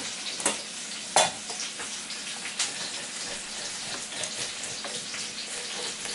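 Chicken sizzling steadily as it fries in bacon grease, with a few sharp knocks on a wooden cutting board, the loudest about a second in.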